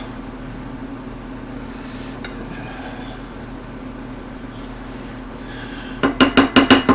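Low steady kitchen hum, then near the end a quick run of clinks as a utensil beats against a bowl, mixing chicken stock into cream.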